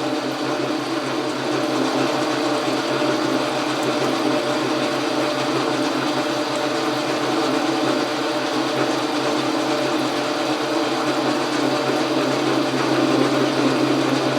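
Logan metal lathe running steadily under power feed through a long cut, its motor and drive giving an even mechanical hum and whir.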